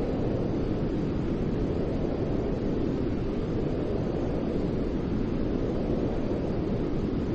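Continuous white-noise track for infant sleep: a steady, even rushing sound, deep rather than hissy, that does not change.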